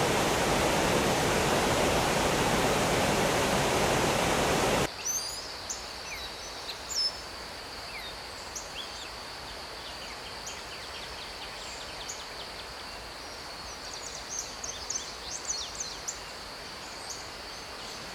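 Mountain stream rushing over rocks for about five seconds, then cutting suddenly to quieter forest ambience: birds chirping repeatedly over a steady high-pitched hum.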